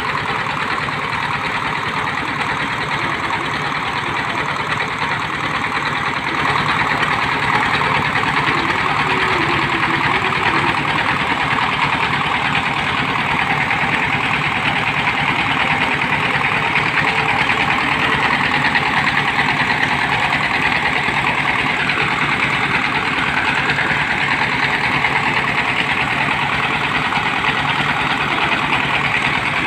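Engine of a water-well drilling machine running steadily, a little louder from about six seconds in.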